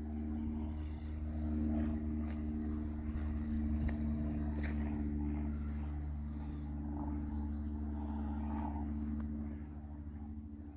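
A steady, constant-pitch engine hum, with a few faint clicks over it.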